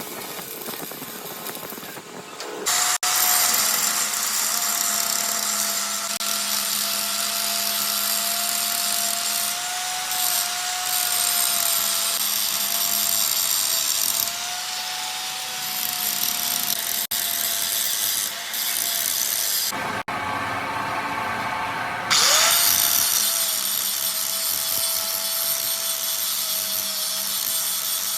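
Electric power tool running steadily on metal, a constant motor whine over a loud grinding hiss, in several short cut-together clips. Near the end, one clip opens with the motor spinning up to speed.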